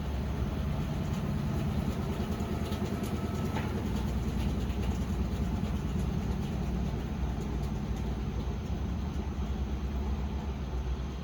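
Electrolux LPE16 washing machine running on its heavy programme with a duvet load, a steady low mechanical hum.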